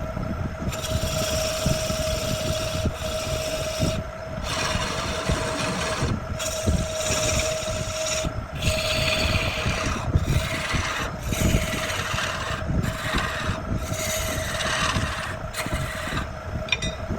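Wood being worked with an abrasive in about nine spells of a second or two each, a harsh hiss with short breaks between. Under it runs a steady single-pitched machine hum with a low rumble.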